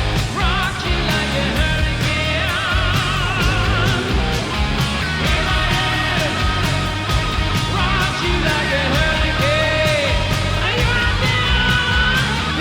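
Hard rock band playing live: electric guitars and drums over a steady beat, with singing and wavering vibrato lines on top.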